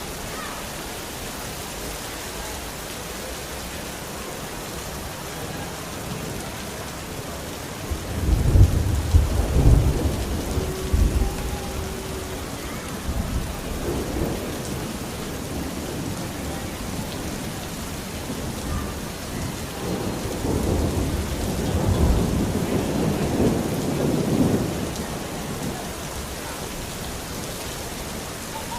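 Steady rain falling, with thunder rolling twice: a loud clap about eight seconds in that rumbles off over a few seconds, and a second, longer rumble swelling around twenty seconds in and dying away about five seconds later.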